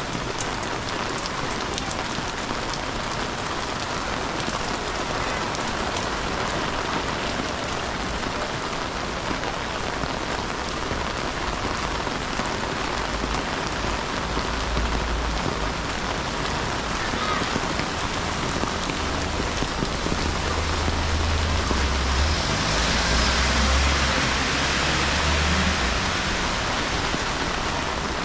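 Steady rain falling and pattering, with a low rumble coming in about halfway through and fading near the end.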